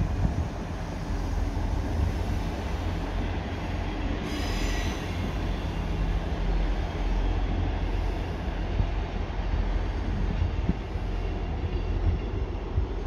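An EMR Regional diesel multiple unit pulling away along the platform, its diesel engines running with a steady low rumble over the noise of wheels on rail. A brief high-pitched wheel squeal comes about four seconds in.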